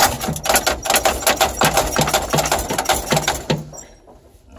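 Rapid, uneven mechanical clattering, many sharp clicks and knocks a second, which stops about three and a half seconds in.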